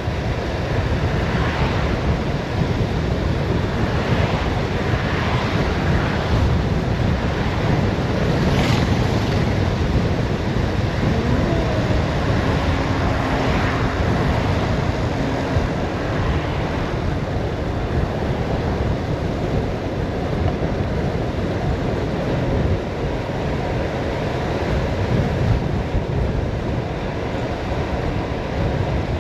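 Steady rushing wind noise buffeting the microphone of a bicycle coasting downhill at speed, with a few brief swishes in the first several seconds.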